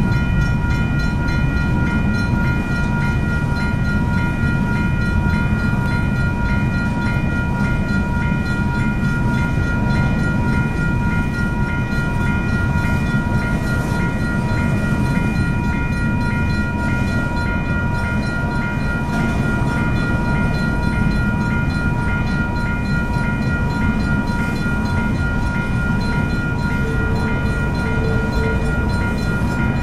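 Freight train rolling through a grade crossing, a steady low rumble of its cars on the rails, while the crossing's warning bell rings on and on above it.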